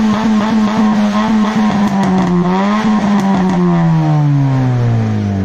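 Honda Brio's four-cylinder engine revved through an aftermarket HKS racing exhaust, held at high revs for about three seconds, then falling away steadily as the throttle is released.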